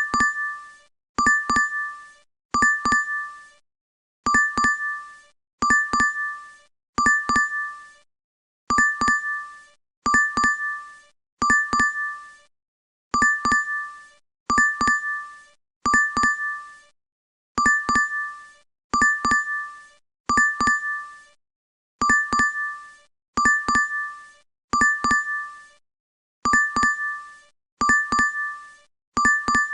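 DoorDash app notification chime, an electronic ding repeating over and over in sets of three, about a second and a half apart, with a short pause between sets.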